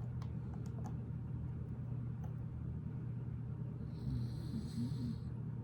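Faint small clicks of plastic Lego bricks being handled and fitted, over a steady low hum, with a breath about four seconds in.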